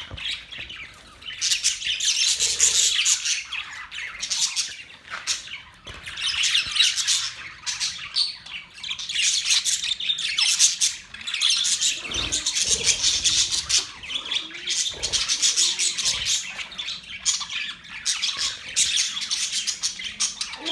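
Budgerigars chattering and warbling in a dense stream of high chirps and squawks, coming in bouts of a few seconds with short lulls between.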